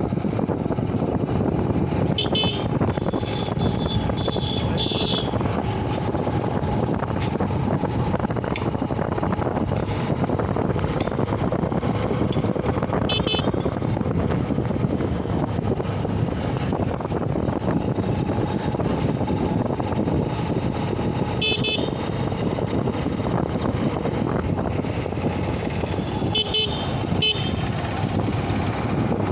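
Honda Shine SP 125 motorcycle riding along with a steady engine, road and wind noise. Short high-pitched horn toots sound several times: once a little over two seconds in, a longer one from about three and a half to five seconds, then single toots near 13 and 21 seconds and two close together near the end.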